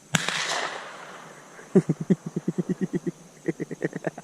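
A single shotgun shot just after the start, its report echoing away over about a second and a half. Then a person laughs in quick, short pulses, twice.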